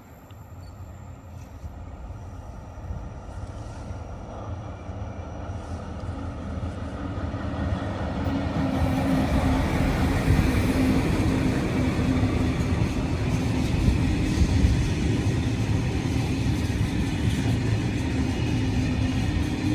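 A train approaching, growing louder over the first half, then running past with a steady heavy rumble and a low hum.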